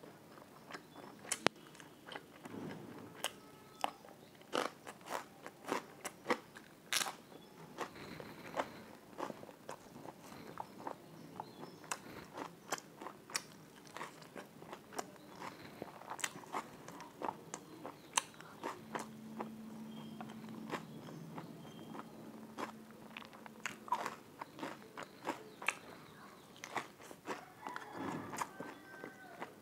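Close-miked mukbang eating sounds: a person biting and chewing puri with sabji, with irregular wet mouth clicks and smacks and some crunchy bites.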